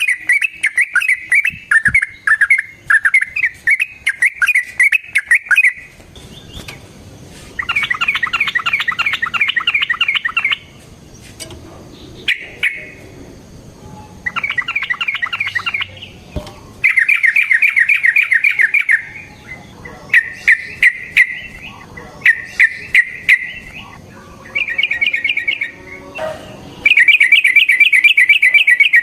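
Yellow-vented bulbul singing fast, bubbly chattering phrases. The singing is continuous for the first few seconds, then breaks into separate bursts of one to three seconds with short pauses between them.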